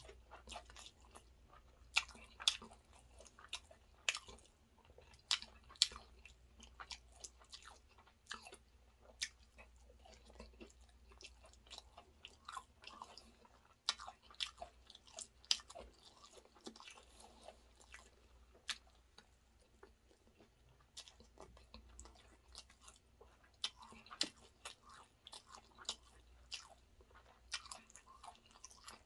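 A person chewing mouthfuls of chicken biryani eaten by hand, with irregular sharp lip smacks and mouth clicks, several a second at times.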